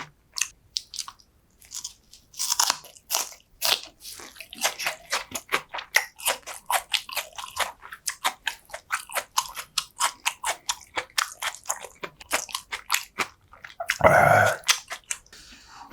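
Close-miked chewing of food, a quick run of crisp, wet mouth clicks about three to four a second. A short, louder sound breaks in near the end.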